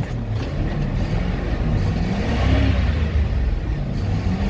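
2003 Ford F-350's 5.4-litre Triton V8 being revved from idle: the engine speed climbs to a peak about two and a half seconds in, then drops back.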